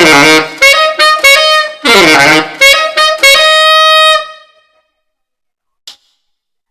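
Tenor saxophone playing a short jazzy phrase of several notes, some opening with falling smears in pitch, ending on a long held note that fades out about four and a half seconds in. A faint click comes near the end.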